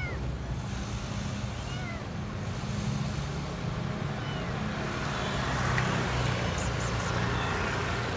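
A small kitten mewing a few times in short, high cries over a steady low hum.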